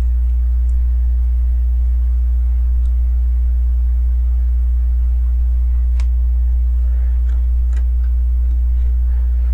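Steady low electrical hum throughout, with a few faint small plastic clicks of LEGO pieces being handled a little past the middle.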